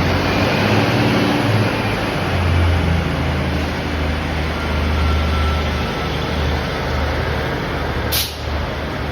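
Northern train pulling out of the platform: a loud steady rumble, with a short hiss about eight seconds in.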